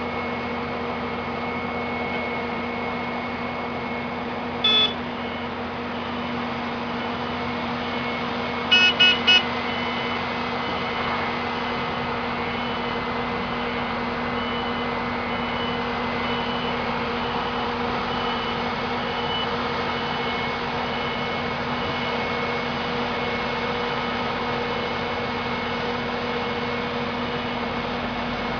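Heavy vehicle engine running steadily, with a reversing alarm beeping faintly about once a second. A loud short beep sounds once about five seconds in, then three quick beeps about four seconds later.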